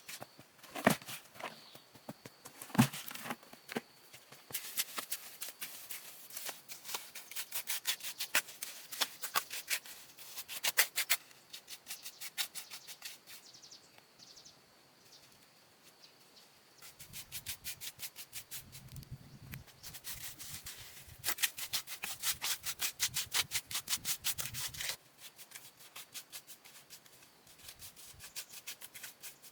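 Fast, repeated scraping or rubbing strokes in two long runs with a pause between them, after a couple of sharp knocks near the start.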